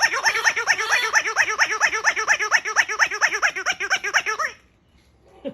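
Giggly dumbbell bird toy playing its recorded giggling laughter: a fast, even run of high giggles, about five or six a second, that cuts off suddenly about four and a half seconds in. A short falling squeak comes right at the end.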